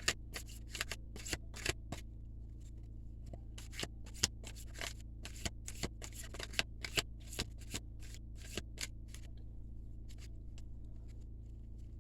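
Tarot cards being shuffled by hand: a quick, irregular run of card snaps and flicks, over the steady low hum of a running generator.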